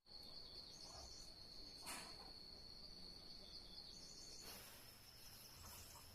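Faint, steady, high-pitched insect trill, with a single sharp click about two seconds in; the trill's pitch steps up slightly about four and a half seconds in.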